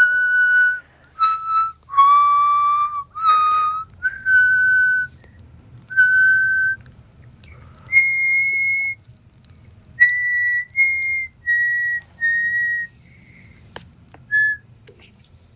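Harmonica played one note at a time, a slow melody of about a dozen held notes separated by short pauses, moving higher about halfway through. A couple of faint clicks near the end.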